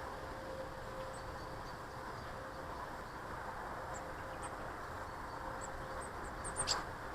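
Small garden birds giving a few short, high chirps, scattered at first and bunching together near the end, where one brief sharp sound stands out loudest. Underneath runs a steady background rumble.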